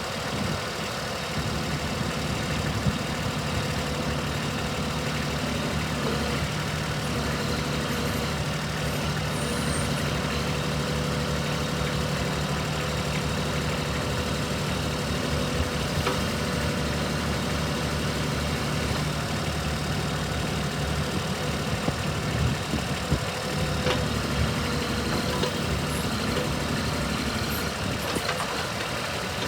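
Kubota B26 compact tractor's diesel engine idling steadily.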